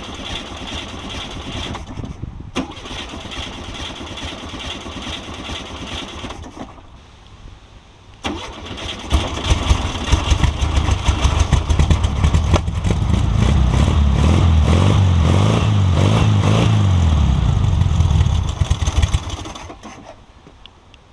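Starter cranking the 1973 VW Beetle's air-cooled flat-four on choke, its first start in about 20 years. After a pause and more cranking it catches about nine seconds in, runs unevenly, then runs steadily for several seconds before dying out near the end. The carburetor is overflowing and leaking.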